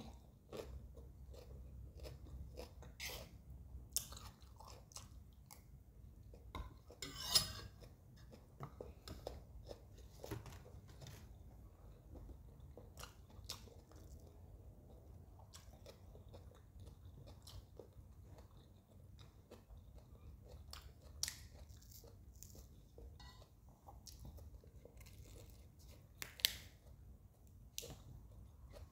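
Eating sounds: chewing food, with crunching bites of crisp raw lettuce leaf and short wet mouth clicks scattered throughout. It is quiet overall, with louder bites about seven seconds in and near the end.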